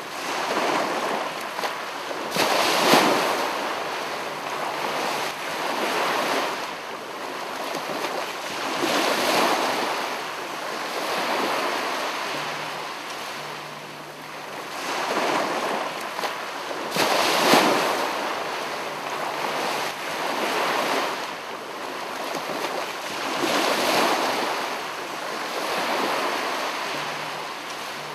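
Rushing, surf-like water noise that swells and fades every few seconds, with the strongest surges about three seconds and seventeen seconds in.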